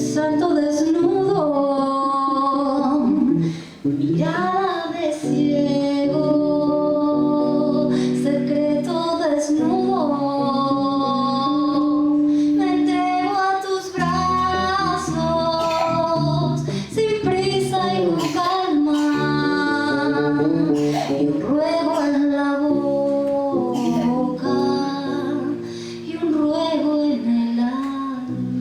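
A woman sings a slow song in Spanish, accompanied only by a plucked bass playing low sustained notes and chords under the voice.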